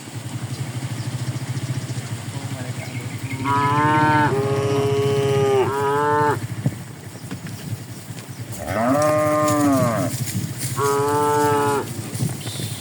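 Cattle mooing: one long, wavering call starting about three and a half seconds in, then two shorter calls near the end, over a steady low hum.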